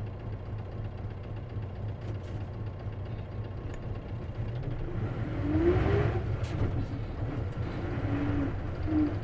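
Isuzu KC-LV380N city bus engine and drivetrain heard from inside the bus while driving: a steady low drone that gets louder about five to six seconds in, with a short rising whine there and a couple of brief whining notes near the end.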